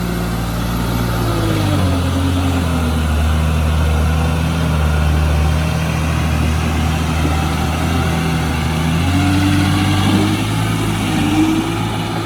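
Tata LPT 3118 heavy truck's diesel engine running steadily, its note dropping about two seconds in. A higher whine falls at the same moment and rises again near the end.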